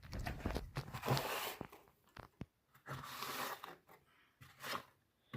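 Crunching and rustling in three short spells, with a few sharp clicks, as fire-lighting material is pushed and crushed into a fireplace.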